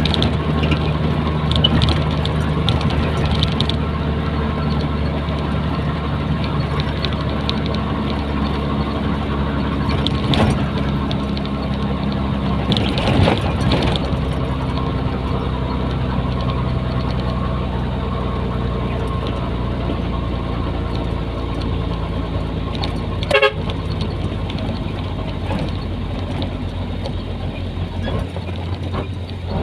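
Nissan Diesel container truck's diesel engine running steadily under way. A few brief louder sounds cut in, the sharpest about two-thirds of the way through.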